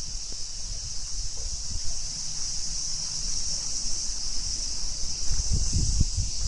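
Steady, high-pitched insect chorus over a low rumble of wind on the microphone, which gusts more strongly near the end.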